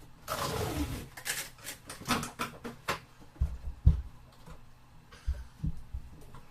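Handling noise from setting up a portable spot cooler: a short rustling rush, then a quick run of plastic clicks and knocks, and a few low thumps, sped up to double speed.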